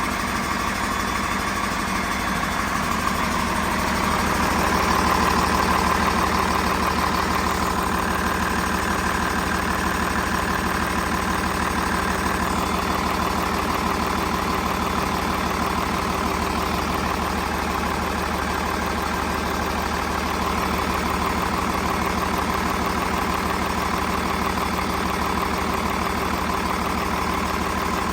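2012 Hino J08E-VB 7.7-litre turbocharged diesel engine running at a steady idle.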